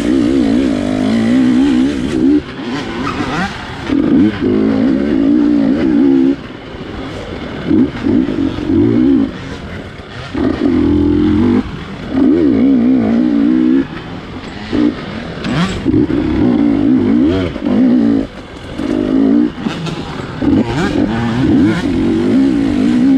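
GasGas 250-class dirt bike engine revving in short bursts, the throttle opened and closed every second or two, with the pitch wavering within each burst. Sharp knocks and clatter come between the bursts.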